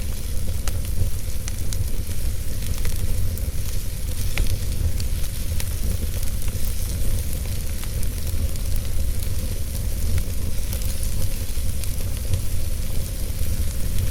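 Wood fire burning in a fireplace: a steady low rumble of flame with a soft hiss, and scattered sharp crackles and pops.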